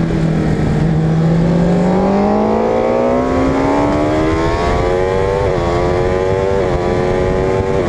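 Onboard sound of a superbike engine accelerating hard out of a corner. The engine note climbs steadily through the revs, then three quick upshifts follow in the last few seconds, each a brief dip in pitch.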